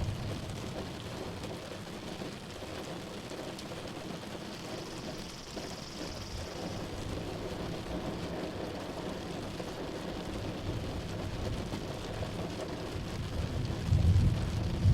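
Thunderstorm: steady rain with rolling thunder. A rumble of thunder dies away in the first second, and another rumble swells up near the end.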